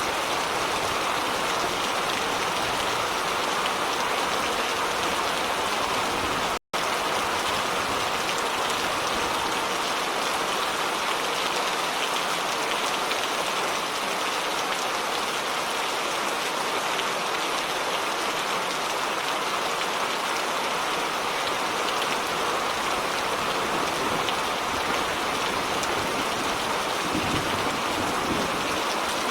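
Steady heavy rain falling and pattering on surfaces, an even wash of sound. It cuts out for an instant about seven seconds in.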